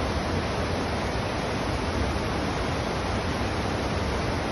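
A steady, even rushing noise with no change or separate events.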